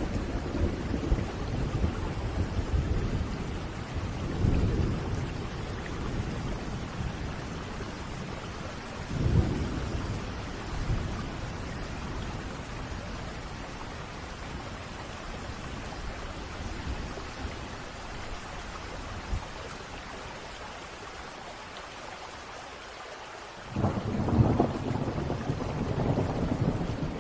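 Thunderstorm: steady rainfall with rolls of thunder rumbling every few seconds, easing off for a few seconds before a louder thunderclap rumbles in near the end.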